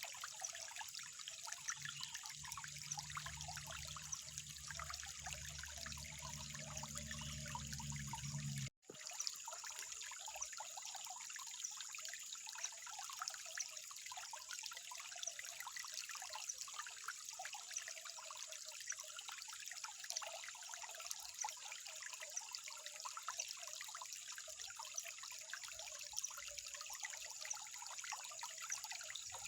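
Water trickling steadily, with a low hum under it for the first nine seconds or so. Both drop out for an instant at an abrupt cut, then the trickle goes on.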